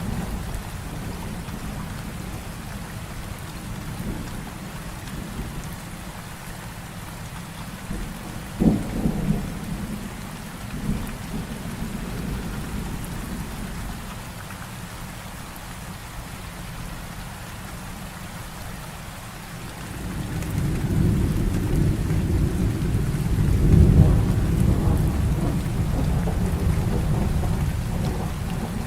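Heavy rain falling steadily, with thunder. A sharp thunderclap comes about a third of the way in, followed by brief rumbles. A long rolling rumble then builds from about two-thirds of the way through and carries on to the end.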